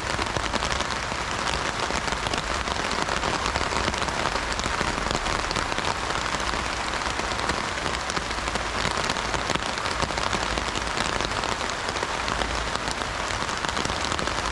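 Heavy rain drumming steadily on an umbrella canopy, a dense, even patter of drops.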